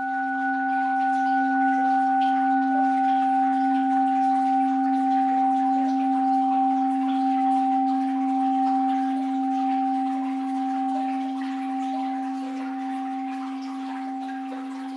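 A Japanese orin (Buddhist bowl bell), struck just before, rings on in one long, slowly fading tone with a gentle waver. Faint water sounds run underneath.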